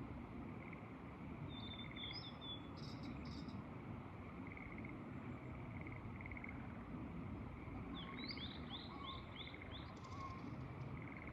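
A songbird singing in two short bouts, the second a run of about five quick down-slurred notes, over a steady low rush of wind. A faint short chirring call repeats every second or so throughout.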